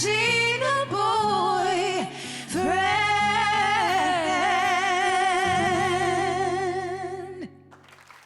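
A woman singing over instrumental backing, closing the phrase on one long held note with vibrato that stops about seven and a half seconds in, after which only a faint tail remains.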